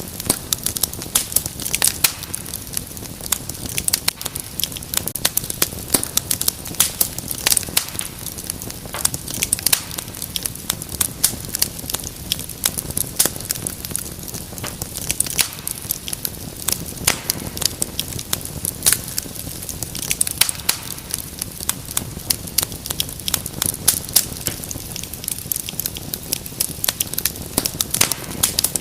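Wood fire in a fireplace crackling, with dense, irregular sharp pops and snaps over a soft low rushing of the flames.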